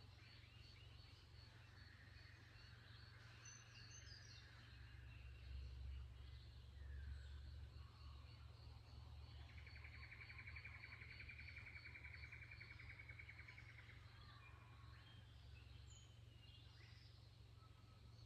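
Faint dawn birdsong from several birds over a steady low hum. A high note repeats quickly at the start, and a rapid trill lasts about four seconds midway, with scattered chirps around it.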